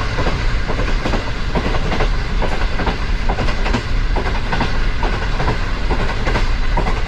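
Train running along the track: a continuous rumble with wheels clattering irregularly over rail joints.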